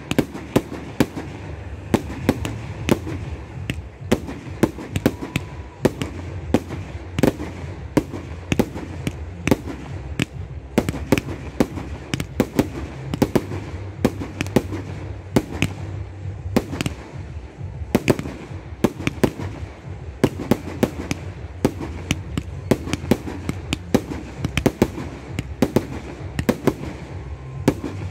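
Aerial fireworks going off in quick succession: sharp bangs of shells bursting, several a second and without let-up, over a steady low rumble.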